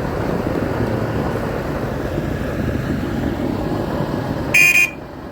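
Diesel tractor engines running steadily while towing. A short, loud, high-pitched beep sounds near the end.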